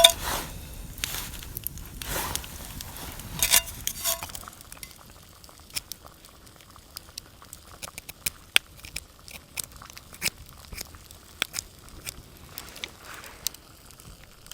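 Wood fire crackling and popping, with irregular sharp snaps. In the first few seconds it is mixed with louder crunching and rustling handling noise.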